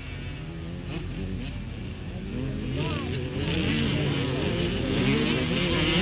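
Several motocross bikes revving and running on the track, their engine notes rising and falling over one another and growing louder from about two seconds in.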